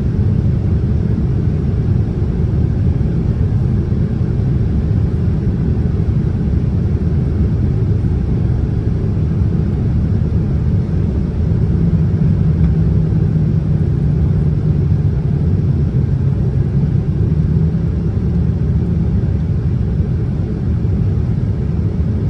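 Boeing 787-10 airliner noise heard from inside the cabin: a loud, steady low rumble, with a low hum standing out for several seconds past the middle.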